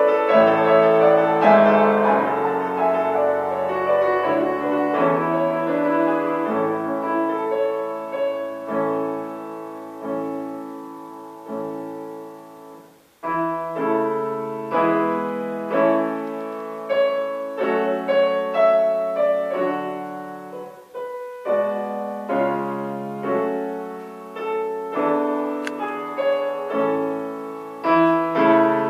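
Solo piano playing a slow, lyrical piece, its notes and chords ringing and fading, with a short break about halfway through before the playing resumes.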